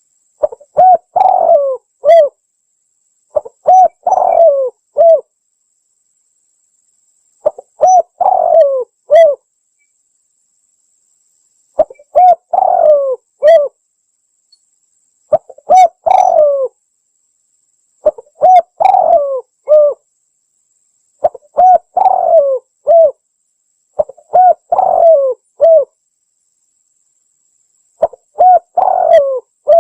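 Spotted dove (tekukur) cooing: about nine phrases of several low coos each, separated by pauses of one to two seconds. This is the call used as a lure to draw in spotted doves.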